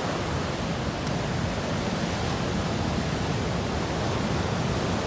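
Steady rushing of water, an even noise with no distinct events.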